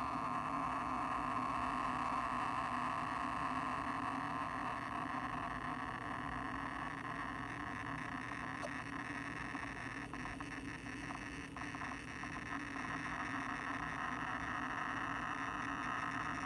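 Seagate Exos X16 12TB hard drive, inside a Seagate Expansion external enclosure, running a quick-scan error test: a steady low drone with a whirring hiss on top and a few faint ticks about two-thirds of the way through. The sound cuts off sharply at the very end. This is the strange noise the owner hears only while the drive is reading or writing, and most plainly during an error-check scan.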